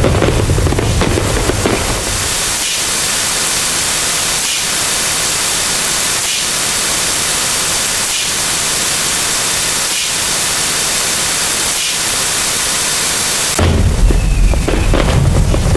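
Layered sound effects: deep booms give way after about two seconds to a loud, steady hiss like static, with faint regular pulses every couple of seconds. Near the end the booms come back in suddenly.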